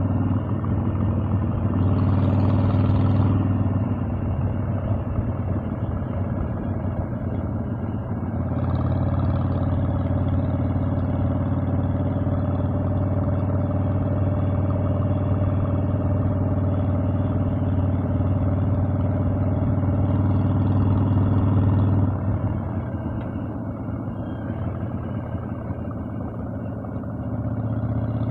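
Harley-Davidson Evolution air-cooled V-twin engine running under way on a ride. It holds steady throttle, eases off about four seconds in and again a little past twenty seconds, then picks back up near the end.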